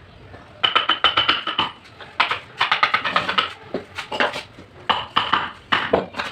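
Bursts of rapid tapping with a metallic ring, as a mallet drives a carving chisel into MDF, several quick strikes at a time with short pauses between bursts.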